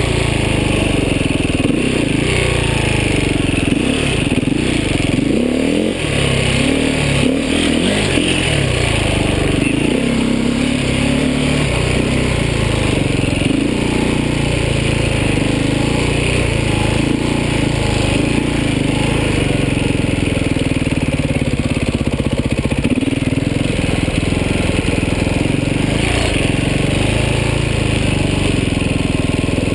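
Beta 450 RR Factory enduro motorcycle's four-stroke single-cylinder engine, revving and easing off repeatedly while riding a dirt trail, heard close up from the bike. Its pitch rises and falls quickly through the first ten seconds or so, then holds steadier.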